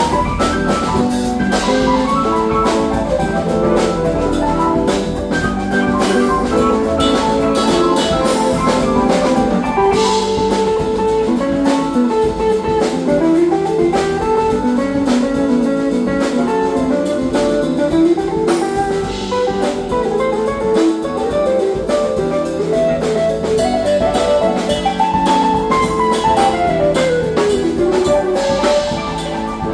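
Funk band playing an instrumental passage: a guitar lead line over drum kit and bass. The lead slides up in pitch twice and later slides down in a long glide near the end.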